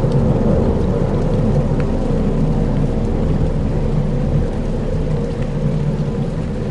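Dark ambient soundscape: a dense, steady low rumble with a faint rain-like hiss above it, easing off slightly near the end.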